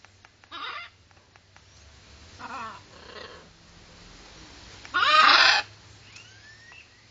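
Parrot calls: a few short calls, the loudest and longest about five seconds in, followed by faint rising whistles.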